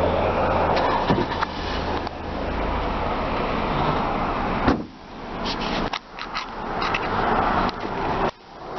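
2008 Honda Accord's engine idling, heard from outside the car, under a dense rumble of wind and handling noise on the microphone. There are several sharp clicks about a second in and again near the middle, and the noise drops away suddenly a few times.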